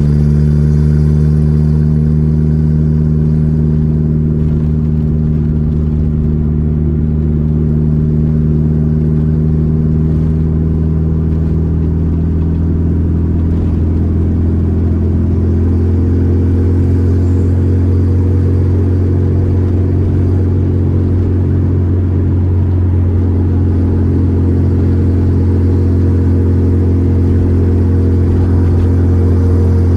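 Volkswagen Gol G4 Rallye running at a steady cruise, a constant low engine drone whose tone shifts slightly about halfway through.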